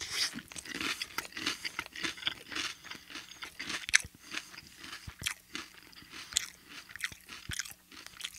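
A person chewing a mouthful of crisp toast round topped with a creamy salad: dense crunching that grows sparser, with one sharp crunch about four seconds in.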